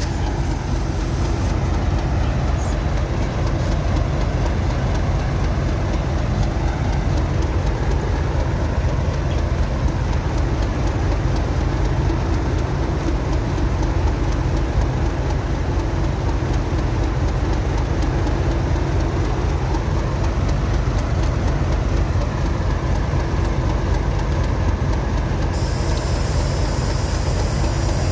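Class 37 diesel-electric locomotive's engine running steadily at idle: a continuous low rumble with a steady drone and slight slow rises and falls in pitch.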